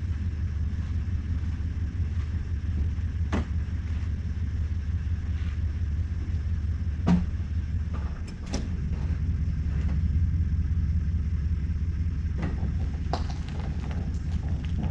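Tow vehicle's engine running steadily as it backs the boat trailer a little further down the ramp, with a few sharp clicks through it.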